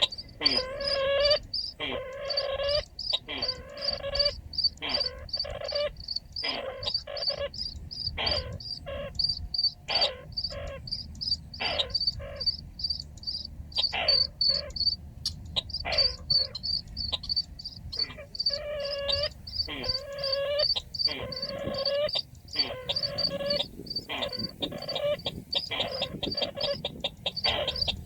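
Bird calls of the kind the Vietnamese call the chằng nghịch, as used to lure birds into a trap. The pitched calls repeat about once a second in runs, over a rapid high pulsing that goes on throughout.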